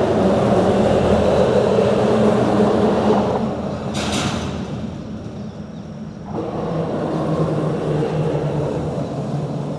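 Traffic rumble of vehicles passing over a bridge, with a steady low hum underneath. It is loudest at first, eases off about three seconds in, and builds again about six seconds in, with a short hiss about four seconds in.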